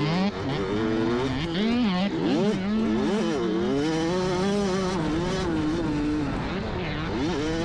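Dirt bike engine on a motocross track, revving up and dropping back again and again as the throttle is worked, with several quick rising sweeps.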